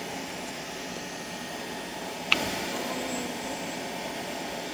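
Car wash vacuum running with a steady rushing of air, with one sharp click about two seconds in.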